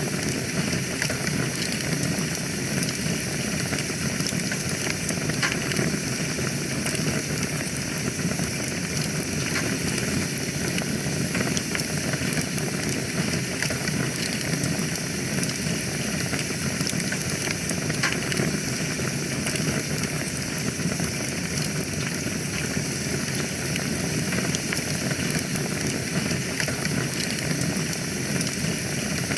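Wood fire burning in a fireplace: a steady hiss with many small crackles and pops.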